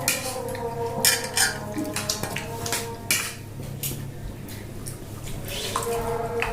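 Spoons and cutlery clinking and scraping against plates while people eat, in scattered sharp clinks over a steady hum.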